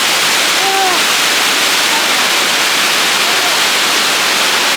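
Loud, steady rush of fast-flowing mountain water, a river or waterfall, with a faint voice briefly audible about a second in.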